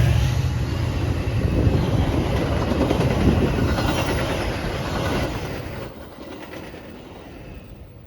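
A train passing, its wheels running on the rails, the sound fading away about six seconds in.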